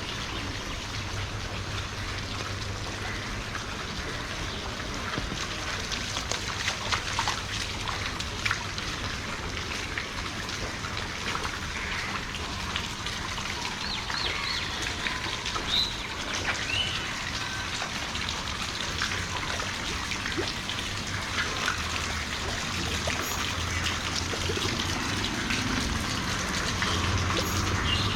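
Rainwater trickling and dripping after a shower, with scattered drips and a few short bird chirps. A low hum grows louder near the end.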